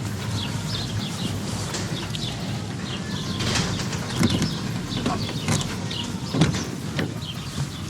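Small birds chirping over a steady low background noise, with a few sharp knocks or thumps, the loudest two about halfway through and later on.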